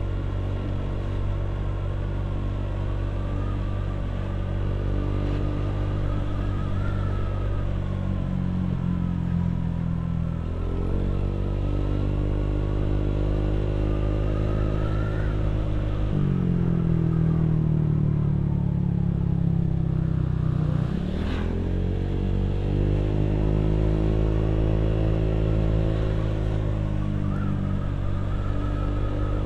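Motorcycle engine running under way at a fairly steady pitch. It steps up about ten seconds in and again near sixteen seconds, dips sharply about twenty-one seconds in, then climbs again, like gear changes.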